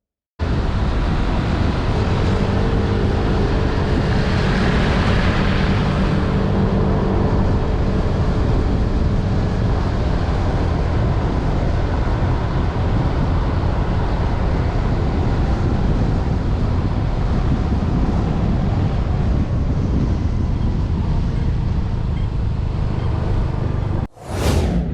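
Motorbike riding sound: a steady engine and road rumble with wind on the microphone. It starts abruptly and is cut by a short whoosh near the end.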